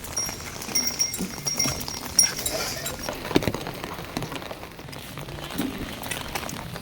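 Heavy monsoon rain falling steadily, with a few short animal calls and a run of short high chirps over it in the first couple of seconds.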